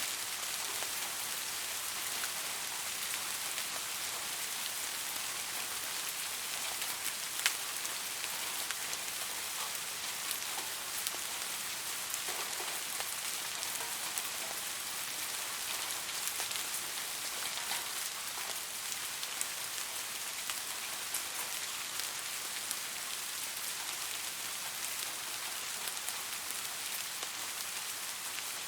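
Steady rain falling, an even hiss with many fine drop ticks and a sharper single drop about seven seconds in.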